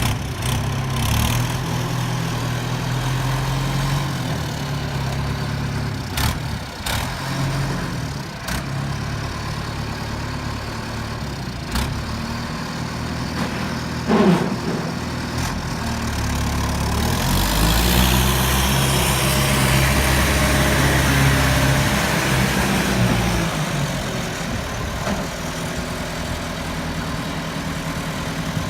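Truck engine running steadily, with a few sharp knocks in the first half. About two-thirds of the way through it runs heavier for several seconds, a hiss rising over it, then it settles back to a steady run.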